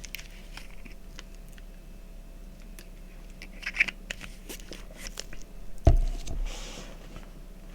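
Scattered small clicks and crinkling handling noises, with one low thump about six seconds in.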